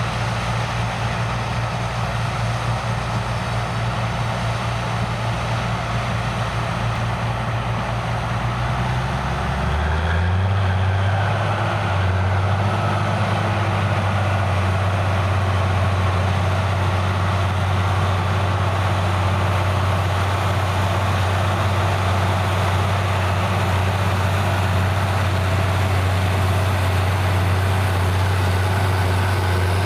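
Heavy diesel engine of farm harvesting machinery running steadily. About ten seconds in the engine note shifts and gets a little louder, then holds steady.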